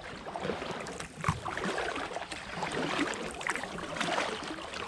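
Kayak paddle strokes on the river: the blades dipping in and water splashing and dripping off them, in an irregular series of small splashes.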